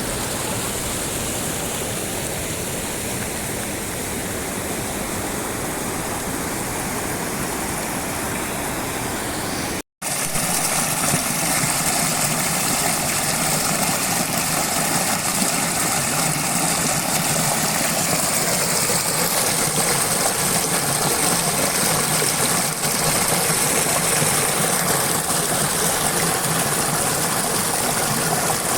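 Waterfall rushing steadily. It breaks off for an instant at a cut about a third of the way in and resumes a little louder.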